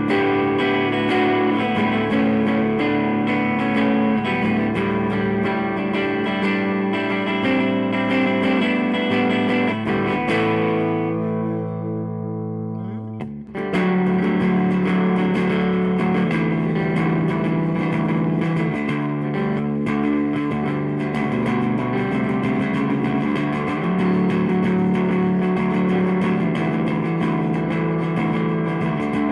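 Electric guitar with Lindy Fralin Broadcaster pickups, both pickups mixed, played through a Fender Blues DeVille 212 tube amp with slight overdrive: continuous chord and riff playing, with one chord held and left to fade for a few seconds about a third of the way in before the playing picks up again.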